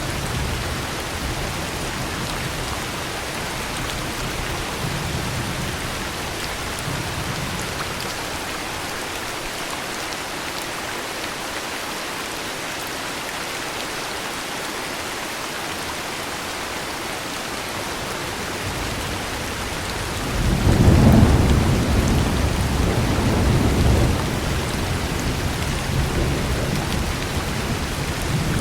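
Heavy rain falling steadily with thunder. A low rumble fades away over the first few seconds. About two-thirds of the way through, a loud peal of thunder breaks in, swells again a few seconds later, then rolls away.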